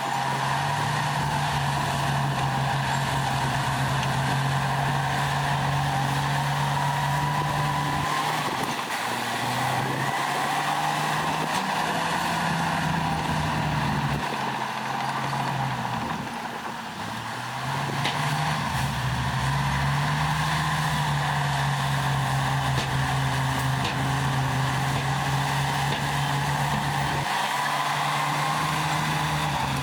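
Heavy diesel engine of earthmoving machinery running under load, its engine note dropping back and picking up again several times.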